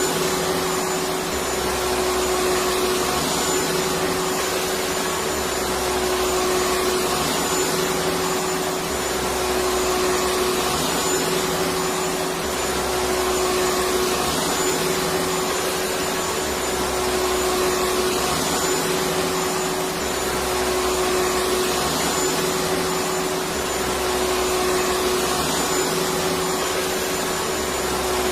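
Electric vacuum cleaner running steadily: a continuous motor hum with a steady whine. It rises and falls slightly at a regular pace every couple of seconds.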